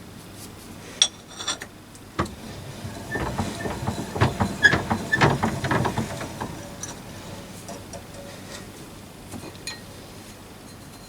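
Clicks and clatter of things being handled on a workbench: a few sharp clicks, then a couple of seconds of quick knocking and rattling, then a few faint clicks.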